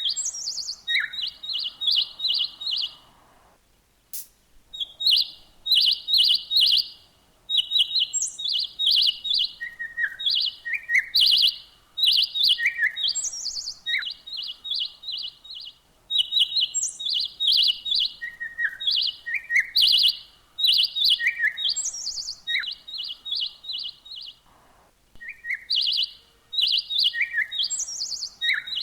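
Songbirds chirping: quick runs of short, high notes repeated in bursts, with lower single chirps and a few higher notes between them, and brief pauses between bursts.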